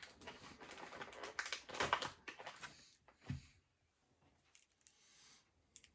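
Crinkly snack packaging being handled and opened: a quick run of rustles and crackles for about three seconds, then near quiet.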